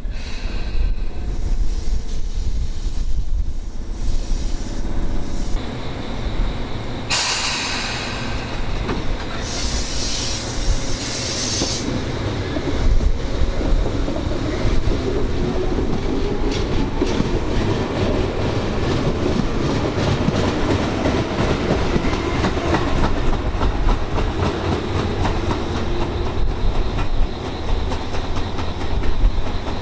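Tobu Tojo Line electric train running on the track, with two bursts of high hiss about seven and ten seconds in, then its wheels clacking steadily over rail joints. Strong wind rumbles on the microphone underneath.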